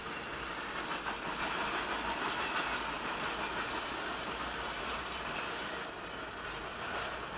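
Norfolk Southern freight train rolling past: a steady rush of steel wheels on rail.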